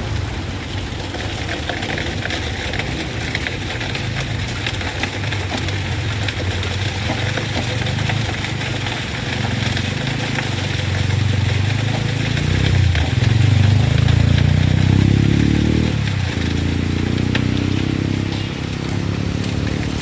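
A heavy truck's engine pulling under load. Its pitch climbs from about ten seconds in to a peak around fourteen seconds, drops suddenly at about sixteen seconds as at a gear change, then climbs again. A steady hiss runs underneath.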